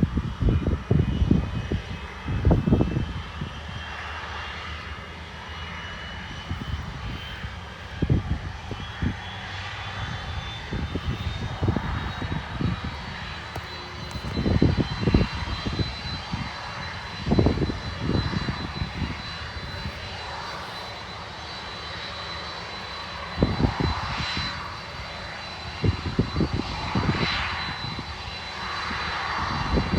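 Boeing 747-400F's jet engines running, a high turbine whine slowly rising in pitch over the first half and then holding steady over a low rumble. Irregular loud low rumbling gusts come and go throughout.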